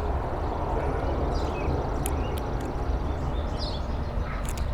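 Steady low outdoor rumble with a few faint, short, high bird chirps, about a second and a half and three and a half seconds in, and a couple of light high ticks.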